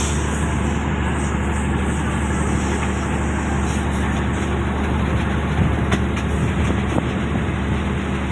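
THN/NKF/ATR diesel railcar running along the line: a steady engine drone with wheel and rail noise, and two sharp clicks about six and seven seconds in.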